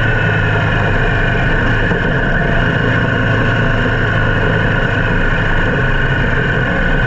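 Motor vehicle engine running steadily, a constant loud drone with no revving or change in pitch.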